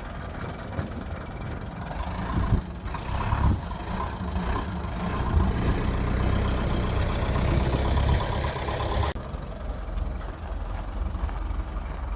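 Old Isuzu truck's engine idling with a steady low rumble, a few louder knocks early on, and the higher sounds dropping away about nine seconds in.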